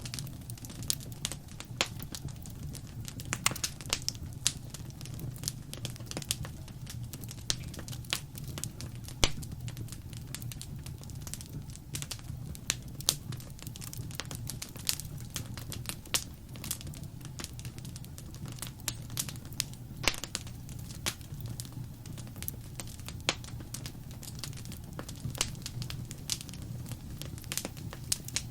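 Wood fire crackling and popping: many irregular sharp snaps over a steady low rumble of the burning fire.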